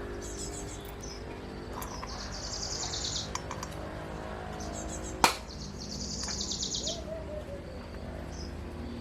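A bird calling in two rapid high trills, about two and six seconds in, over a faint low hum. A single sharp knock just past five seconds in is the loudest sound.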